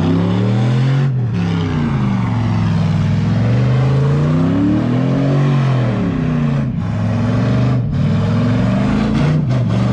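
Car engine revving hard and repeatedly, its pitch rising and falling over and over, with a few brief breaks as the throttle drops off.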